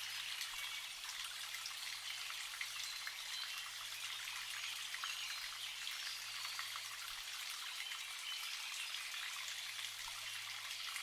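Spring water trickling and dripping, a steady patter of many small drips and splashes.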